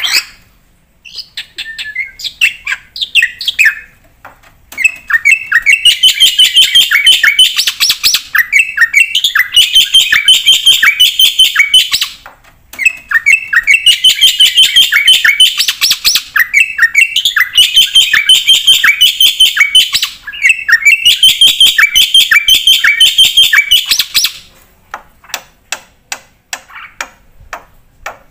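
Black-winged starling (jalak putih) singing in full voice: long loud bouts of fast, repeated chattering notes broken by short pauses, then only scattered sharp clicks near the end.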